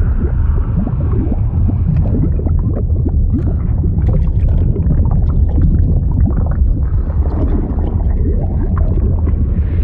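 Liquid sound effect: a steady deep rumble with bubbling and gurgling over it, many small bubble pops and short gliding gurgles.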